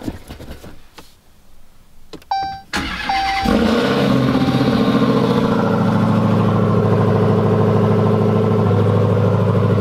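A few short chime beeps, then a Dodge Hellcat's supercharged 6.2-litre Hemi V8 cranks and catches about three and a half seconds in on a cold start. It flares loud and settles into a steady idle through its Carven aftermarket exhaust. As the engine turns on it sounds weak and then gets loud, which the driver suspects could be an exhaust problem.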